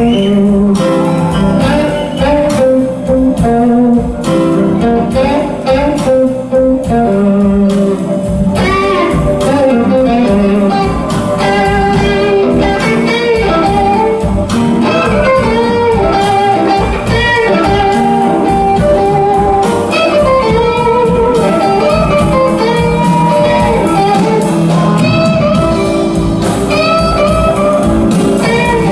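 Live blues band playing an instrumental passage, with a guitar solo of bending, sliding notes over bass and drums.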